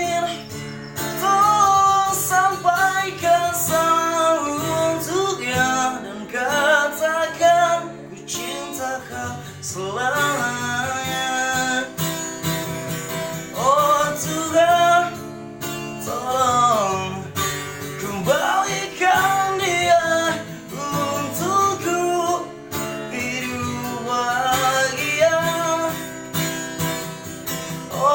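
A voice singing a slow melody over strummed acoustic guitar.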